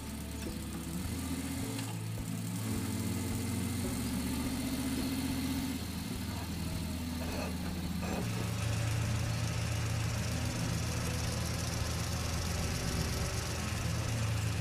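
Steady low engine-like running hum of a miniature toy tractor working a sand bed, shifting in pitch a few times.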